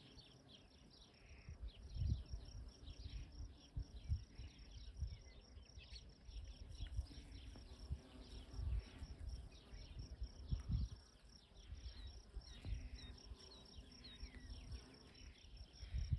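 An insect chirps in a fast, even, high-pitched series, about four to five chirps a second. Gusts of wind rumble on the microphone, and a bird gives a few short chirps about three quarters of the way through.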